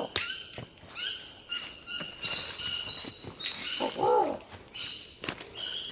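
Wild forest birds calling: many short, high, squeaky chirps repeat over one another, with a single lower rising-and-falling hoot about four seconds in.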